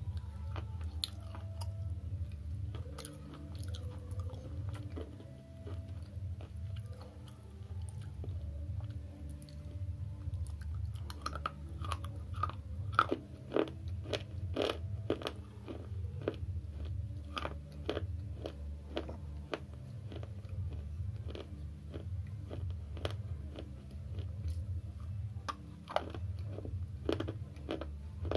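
Dry slate chips being bitten and chewed with the mouth close to the microphone: a run of sharp crunches, sparse at first and coming thick and fast from about ten seconds in. A steady low hum runs underneath.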